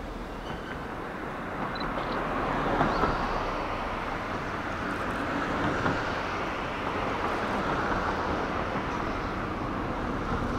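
JR West's Twilight Express Mizukaze, a Kiha 87 series diesel-electric hybrid train, approaching on the track. Its running noise grows louder about two seconds in and then holds steady.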